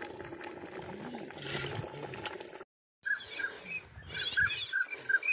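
Outdoor background noise, then, after a sudden break about halfway through, a bird calling in short high notes repeated a few times a second.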